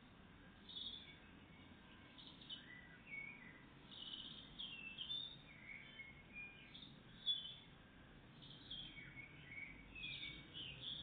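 Small songbirds chirping and twittering faintly, with many short high notes and brief glides overlapping and one louder chirp about seven seconds in.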